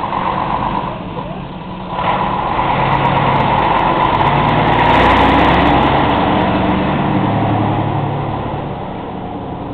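Diesel engine of a Scania S112CL coach running, growing louder over a few seconds and then fading.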